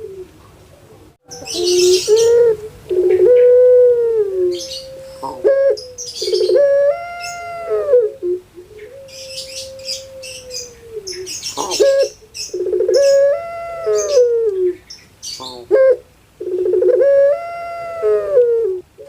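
Puter pelung doves (a domestic ringed turtle dove breed) calling in long, loud coo phrases that rise, hold and fall, about five in a row, with higher chirps from other birds between them.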